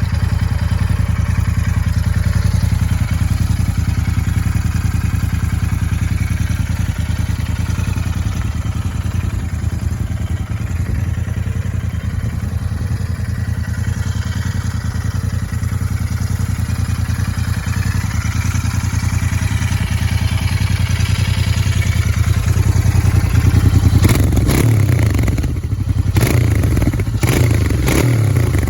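Royal Enfield GT motorcycle engine running steadily on its stock exhaust, with a low, even exhaust note. About 24 seconds in it gets a little louder, and several sharp cracks follow over the next few seconds.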